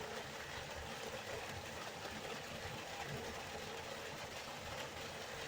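A river's flowing water, a steady rushing without pauses or changes.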